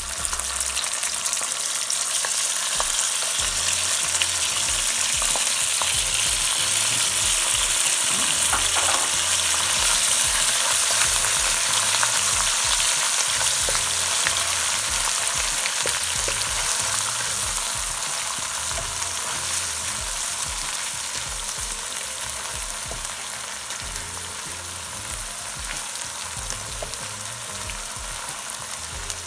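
Ginger-garlic paste frying in hot oil and ghee in a pan: a steady sizzle that swells to its loudest about ten seconds in, then slowly dies down, with a few light clicks.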